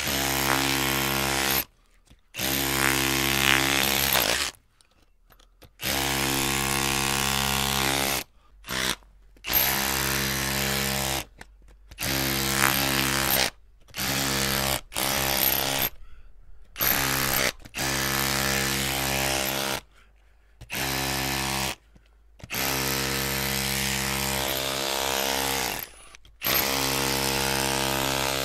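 Electric drill running in repeated bursts of one to three seconds, its motor whining at a steady pitch. Each burst is cut off by a short silence as the trigger is let go.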